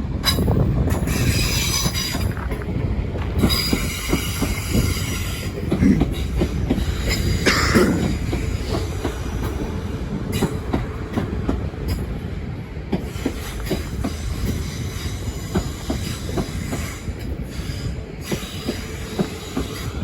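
Passenger train running along the platform, its wheels squealing on the rails in several high tones at times, over a steady rumble and a run of knocks from the wheels crossing rail joints.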